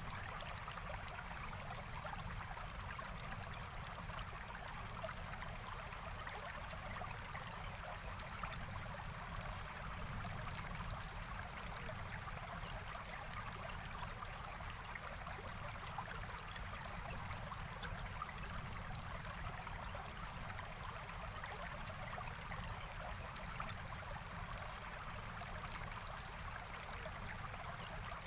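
A forest stream flowing steadily, its water trickling and burbling over stones in an unbroken rush.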